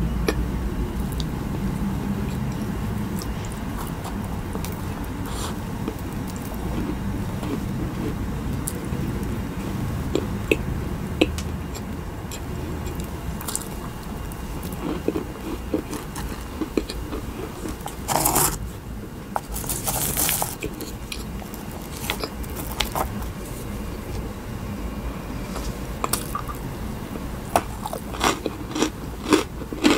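Close-miked eating sounds: chewing and biting a macaron, with a run of small wet mouth clicks and a few louder crunches about two-thirds of the way through, over a low steady hum.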